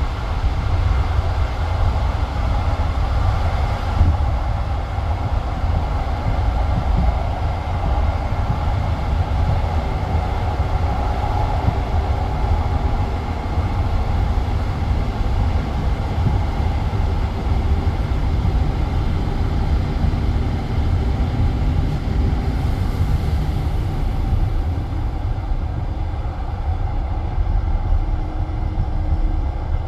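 Passenger train carriage running on the rails, heard from inside the carriage: a steady deep rumble with the clatter of the wheels on the track. The higher hiss fades somewhat near the end.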